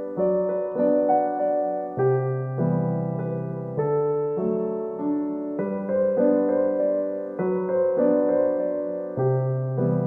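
Background music: a gentle electric piano playing slow, sustained chords that change every second or two.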